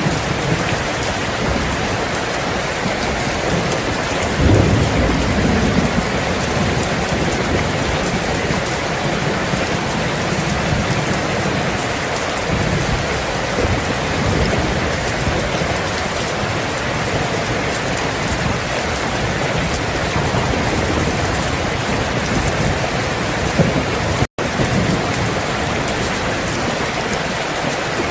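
Steady heavy rain falling, with low rolls of thunder, the loudest about four seconds in and another softer one around twelve seconds. The sound cuts out completely for a split second near the end.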